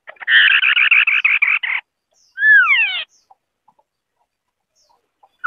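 White-browed scimitar-babbler calling: a fast rattling trill of about eight pulses a second, lasting a second and a half, then one whistle sliding down in pitch. The next phrase begins right at the end.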